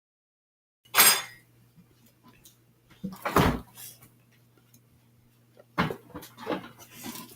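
A slime-making container being shaken by hand, clattering in three short bursts of knocks as the salt-water activator is mixed into the slime. The sound starts after about a second of dead silence.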